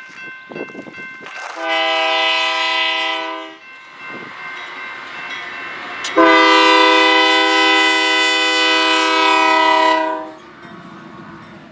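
Union Pacific diesel locomotive's multi-chime air horn sounding two blasts, a shorter one of about two seconds and then a long one of about four seconds, as the train whistles for the road crossing. The low rumble of the approaching train follows near the end.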